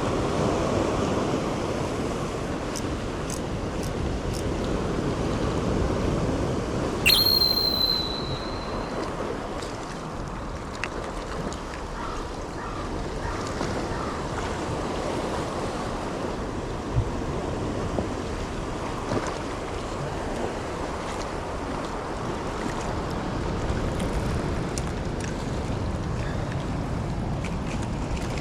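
Rough sea: waves surging and breaking with wind gusting over the microphone. A brief, sharp high-pitched tone cuts in about seven seconds in.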